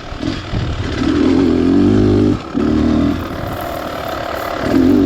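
Beta Xtrainer 300 two-stroke single-cylinder dirt bike engine being ridden on and off the throttle. It revs up through the first half, cuts out briefly after about two and a half seconds, runs lower for a while, then revs up again near the end.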